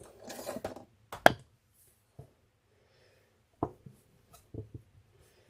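A short rubbing of hands and clay, then a few sharp taps of small hard craft tools knocked or set down on a work table, the loudest about a second in.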